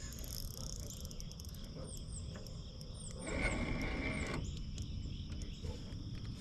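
Insects trilling steadily, with a few short, high, falling bird chirps around the middle. About three seconds in, a rougher buzzing sound rises over them for about a second.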